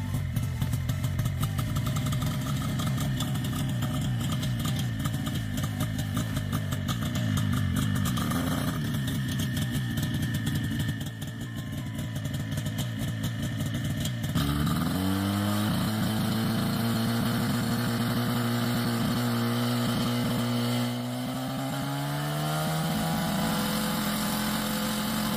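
Small aircraft engine running with a fast, rough pulsing note. About halfway through, a smoother engine note takes over, climbing in pitch as it revs up, holding steady, then climbing again near the end.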